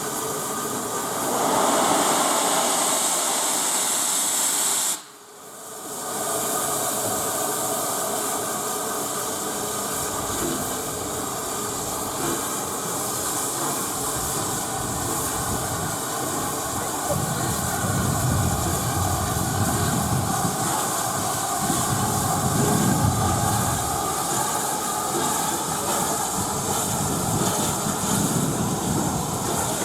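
Steam locomotive hissing steadily, with steam escaping. The sound drops away abruptly for about a second roughly five seconds in, and low rumbling swells come and go later on.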